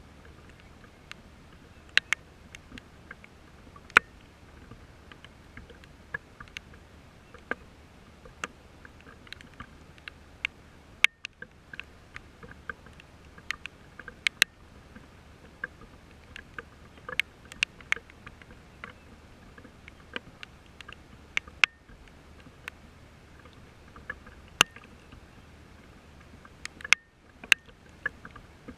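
Irregular sharp taps of raindrops striking close to the microphone, several a second and uneven in strength, over a steady low hum.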